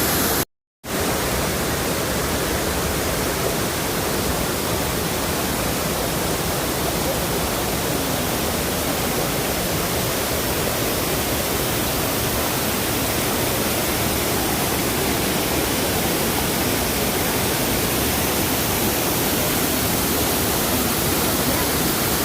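Steady rush of water from a waterfall, an even roar at all pitches that cuts out completely for a fraction of a second about half a second in.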